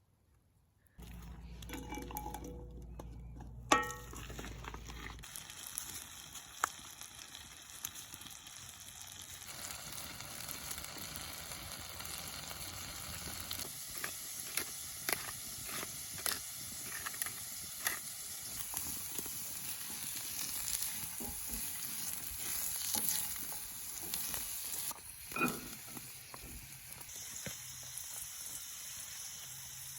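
Steak sizzling in a pan over a campfire, starting about a second in, with a steady hiss and scattered crackles and pops, one sharp pop about four seconds in.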